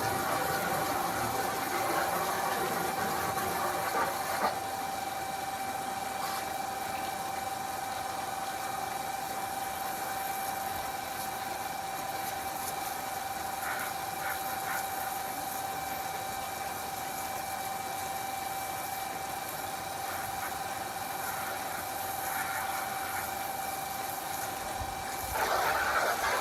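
Water running steadily under a constant pump hum, with the rushing louder for the first few seconds and again briefly near the end.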